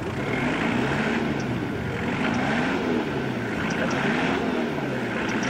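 Toyota 4x4's engine revving up and down over and over as it spins its wheels in deep mud, trying to drive out of a rut. The pitch rises and falls about once a second.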